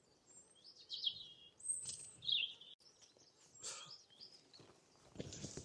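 A few faint bird chirps and short whistled calls, one of them gliding down in pitch, over quiet outdoor background.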